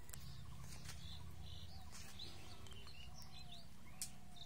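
Faint bird chirps and short calls over a steady low background hum, with a soft click about four seconds in.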